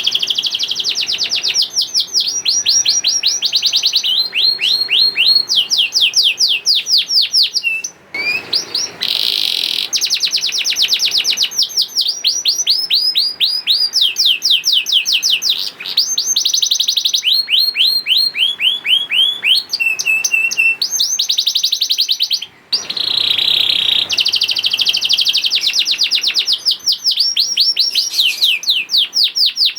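Domestic canary singing a long, continuous song. It is made of rapid trills: runs of quick, repeated downward-swept notes that change from phrase to phrase, with brief breaks about eight seconds in and again about two-thirds of the way through.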